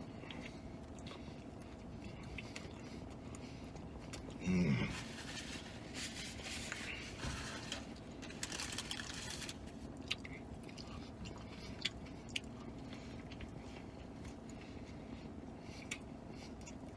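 Close-up chewing of a pretzel-bun bacon cheeseburger: bites, soft crunching and wet mouth sounds, with a short voiced hum about four and a half seconds in and a few small lip clicks later on.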